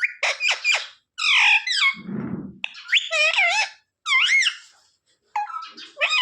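A ringneck parrot chattering and squawking: a string of short, high-pitched calls that swoop up and down in pitch, with a brief low rustle about two seconds in.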